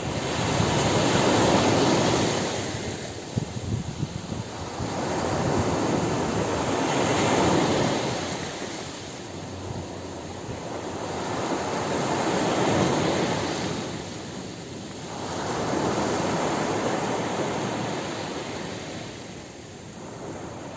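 Ocean surf breaking on a beach: the wash swells and fades in slow surges about every five seconds, four waves in all.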